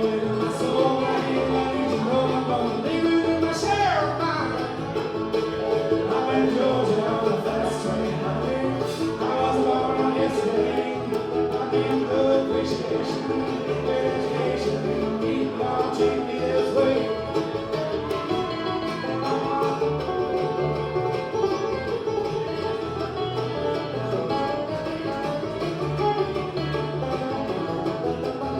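Bluegrass band playing live, banjo and guitar to the fore, with a sliding note that falls in pitch about four seconds in.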